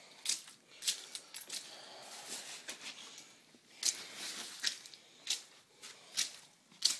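Footsteps squelching and sloshing on flood-soaked carpet, a wet splash with each step, spaced irregularly with a short pause partway through.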